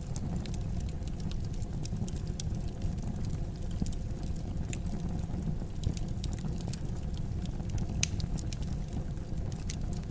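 Fire burning in a fireplace: a steady low rumble of flames with scattered sharp crackles and pops, one louder pop about eight seconds in.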